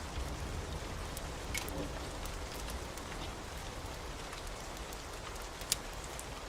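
Steady heavy rain, with a few isolated sharp pops, the loudest one near the end.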